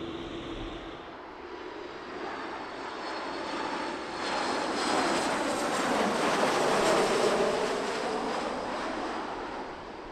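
An airliner passing close by on the runway. Its engine noise builds over a few seconds, peaks about halfway through, then fades with a falling pitch as it goes past.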